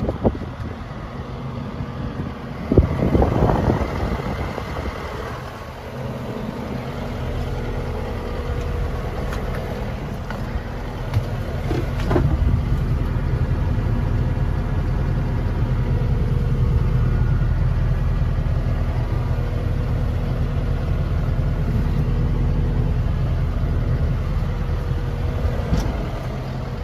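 Takeuchi TL12V2 compact track loader's diesel engine running steadily, growing louder about a quarter of the way in and then holding. Two brief rushes of noise come in the first few seconds.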